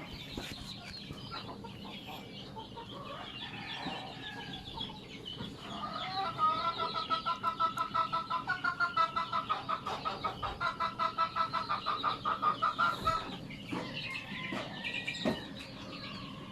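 Chickens clucking, with a long run of rapid, rhythmic clucks, about five a second, through the middle.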